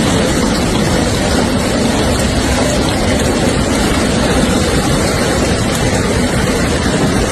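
Hailstorm: hailstones and rain pelting down in a dense, steady, unbroken clatter.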